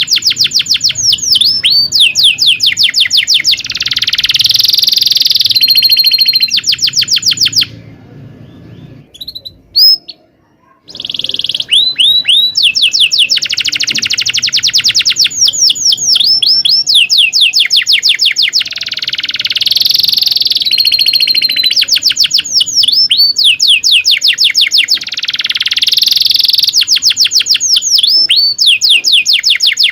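Domestic canary singing: long runs of rapid, repeated falling chirps and rolling trills ('cuit cuit ngerol'). The song breaks off for about three seconds about a third of the way in, with one short loud sound in the gap, then resumes.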